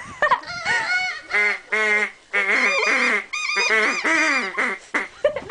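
A flock of geese honking, many short calls overlapping one another in quick succession.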